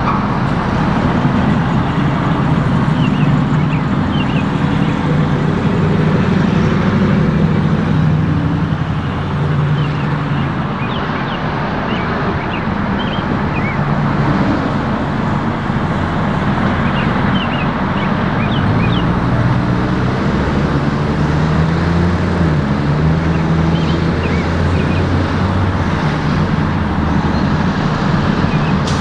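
A motor vehicle's engine running with road noise, its hum shifting in pitch now and then, with scattered short high chirps above it.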